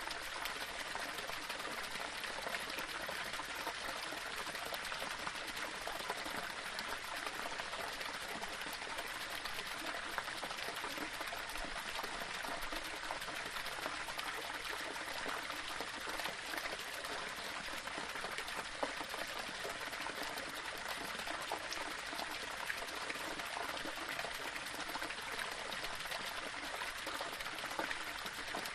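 Small waterfall splashing and trickling over stones: a steady, even rush of water with fine splashing detail throughout.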